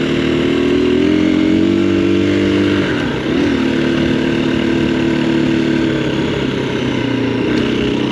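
Dual-sport motorcycle engine running at low, steady revs close to idle, with a brief dip and pick-up in engine speed about three seconds in.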